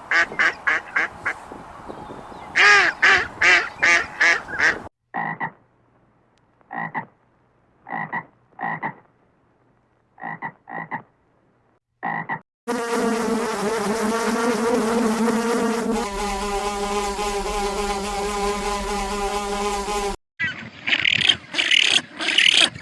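A string of animal calls. First come rapid repeated pulsing calls. Then short separate calls come in ones and twos with silence between them. Then a steady buzzing call runs for about seven seconds, its pitch dropping partway through, before rapid pulsing calls start again near the end.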